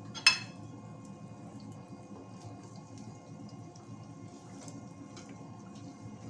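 Turon frying in oil and caramelizing brown sugar: a steady sizzle with scattered small pops and crackles. About a quarter second in, a sharp ringing clink of a metal spoon against the pan.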